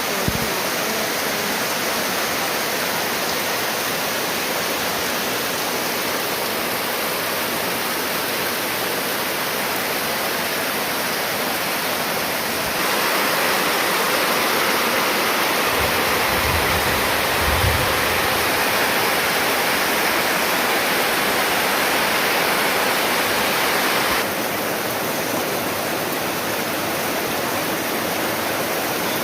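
Heavy rain pouring down in a steady hiss. It grows louder for about ten seconds midway, then eases back, with a brief low rumble in the louder stretch.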